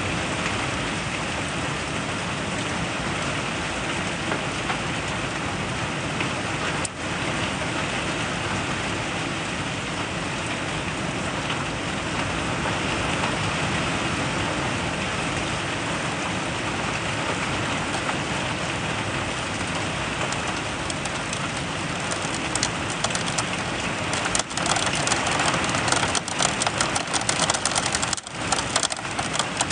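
Steady rain pouring during a severe thunderstorm. Over the last several seconds it turns louder and more uneven, with a rapid close crackle of drops striking.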